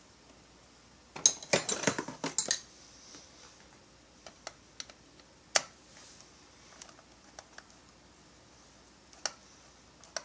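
A short clatter of small hard objects about a second in, then scattered light clicks and taps: small chainsaw parts and hand tools being handled and set down on a workbench.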